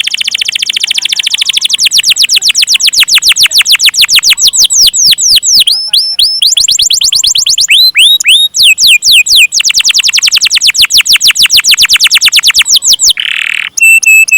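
Domestic canary singing a long rolling song: fast trills of repeated down-slurred whistled notes, about ten a second, switching to a new note type every few seconds, with a short break near the end.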